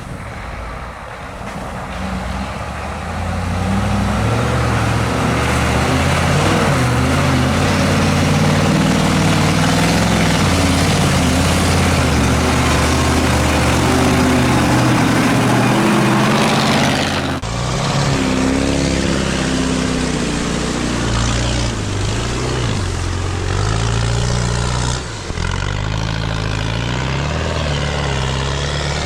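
Off-road racing truck engine running hard under load, its pitch rising and falling as it revs, over a broad rushing noise. The sound changes abruptly partway through.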